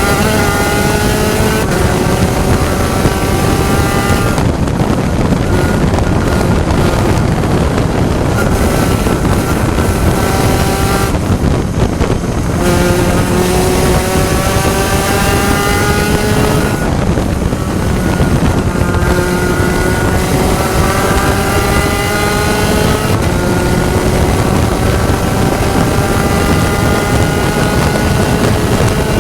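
Onboard sound of a Spec Racer Ford Gen3 race car's four-cylinder engine under hard acceleration, its pitch climbing through each gear and dropping back at the shifts. It lifts off and picks up again about four times, roughly every six seconds, as it brakes for corners and then accelerates out. Wind noise on the microphone runs underneath.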